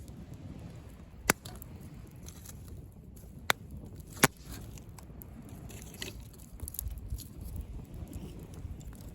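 Driftwood bonfire crackling, with three sharp loud pops in the first half and a few fainter snaps later, over a steady low rumble.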